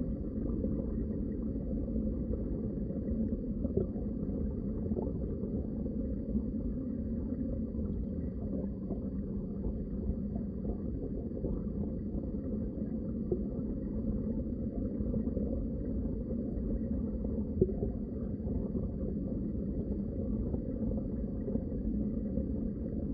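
Underwater ambience: a steady, deep rushing rumble of water heard below the surface, with a few faint clicks here and there.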